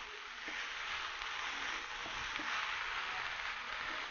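Freekeh and onions sizzling steadily in hot oil in a pan as they toast, with a few faint scrapes of a wooden spoon stirring them. The sizzle cuts off suddenly at the end.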